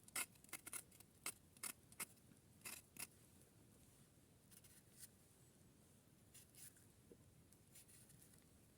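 Faint short sharp clicks or snips, about three a second for the first three seconds, then a few scattered ones.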